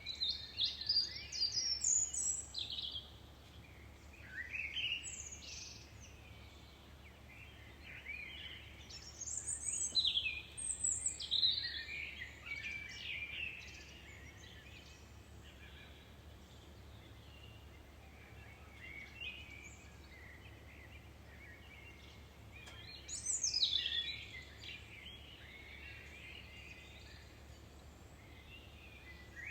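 Several songbirds singing and chirping, with quick rising and falling trills in bursts and calmer stretches between them, over a steady low background hum.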